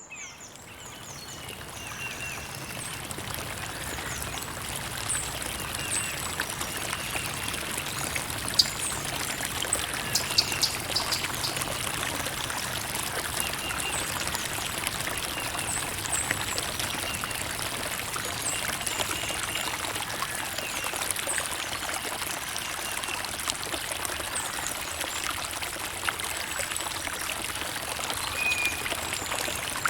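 Creek water trickling and flowing steadily, fading in over the first couple of seconds, with a few louder splashes about a third of the way in.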